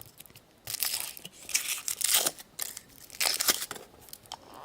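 Foil wrapper of a Kinder Surprise chocolate egg crinkling and tearing as it is unwrapped by hand, in irregular bursts of crackle.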